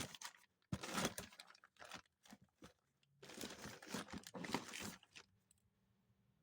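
Plastic bags crinkling and rustling in irregular bursts as bagged used carburetors are rummaged through in a parts box; the rustling stops about five seconds in.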